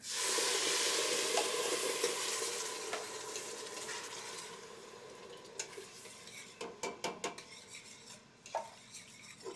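Coconut milk hitting a hot sauté pan of frying curry paste and aromatics, sizzling loudly at once and dying down over about five seconds. Then a utensil clicks and knocks against the pan as the mixture is stirred.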